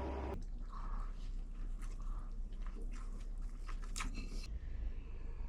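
Close-up chewing and crunching of food, with scattered small clicks and taps. A steady hum cuts off about a third of a second in.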